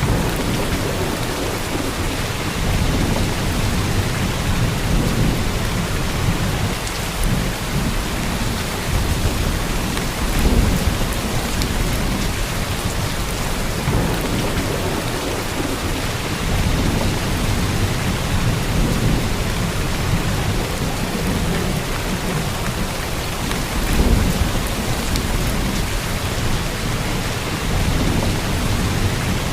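Heavy monsoon rain pouring down in a steady, dense hiss, with a deep rumble underneath that swells twice, about ten and twenty-four seconds in.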